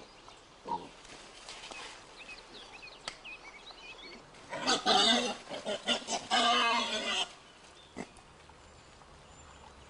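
Wild boars squealing: two harsh squeals, about five seconds in and again about six and a half seconds in, the second lasting about a second. Faint bird chirps sound before them.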